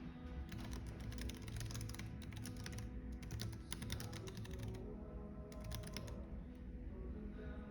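Typing on a computer keyboard in quick runs of keystrokes for about four seconds, then a pause and a shorter burst, over soft background music and a low steady cafe rumble.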